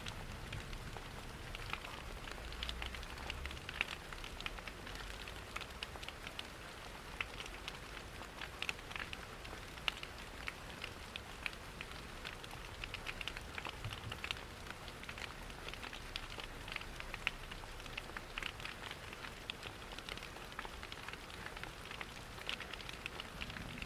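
Rain pattering against windows, mixed with a crackling fireplace: a steady hiss dotted throughout with many small, sharp ticks and crackles.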